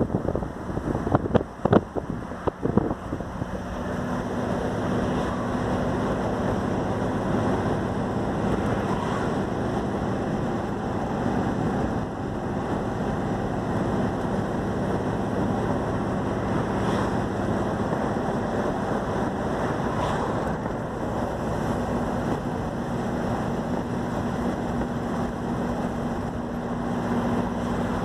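Puma GTS's air-cooled Volkswagen flat-four boxer engine running steadily on the move, with wind buffeting the microphone. The wind is gusty in the first few seconds, then the engine settles into an even drone.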